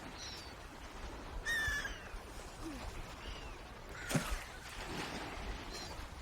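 Bird calls: one clear call with a steady pitch about a second and a half in, among several short high chirps, over faint background noise.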